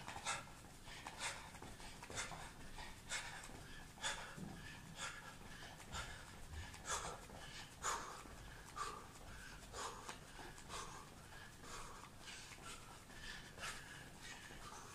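Short, sharp breaths out through the nose, about one a second and sometimes in quick pairs, from a person shadowboxing with light hand weights and breathing out with the punches.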